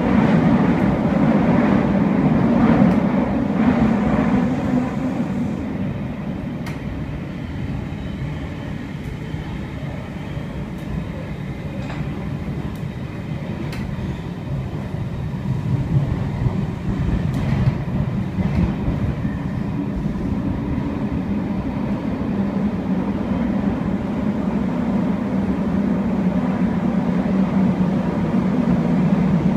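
Running noise inside a Sydney Trains S set double-deck electric carriage on the move: a steady rumble of wheels on rail with a few sharp clicks. It eases off for several seconds about a fifth of the way in, then grows louder again.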